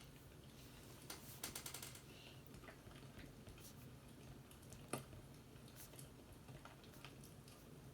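Faint fireplace crackling: scattered sharp pops and snaps, a quick run of crackles about one and a half seconds in and a louder single crack about five seconds in, over a low steady rumble.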